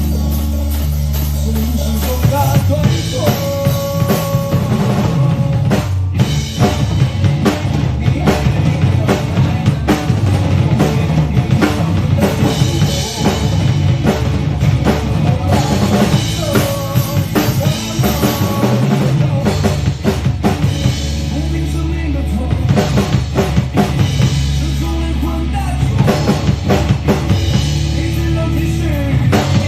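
Drum kit played over a recorded backing track of a band song: kick and snare hits over sustained bass and other pitched instruments.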